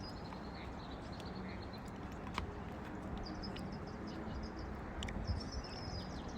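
Small wild songbirds calling: runs of quick, high chirps, with two sharp clicks, over a steady outdoor background hiss.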